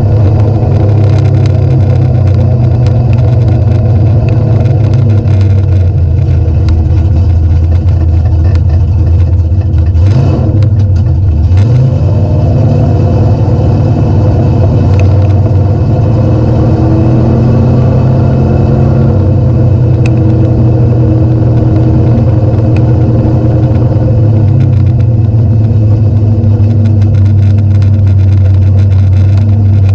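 Fox-body Mustang's 408 cubic-inch V8 running steadily with a loud, low exhaust note, the engine pitch dipping and picking back up briefly about ten seconds in.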